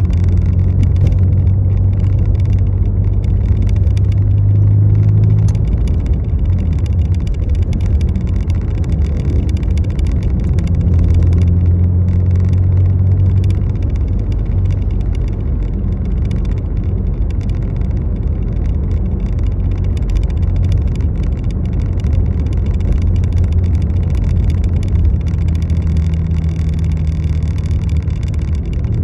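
A road vehicle running steadily with a low engine hum that swells twice, under a dense patter of fine ticks from rain.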